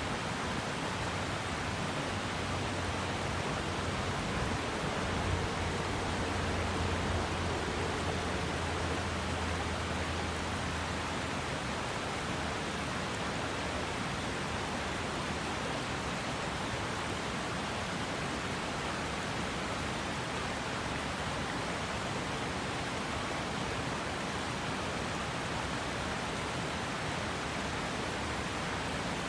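Okurushibe River water rushing in a steady, unbroken wash. A low hum sits under it for about the first third, then fades out.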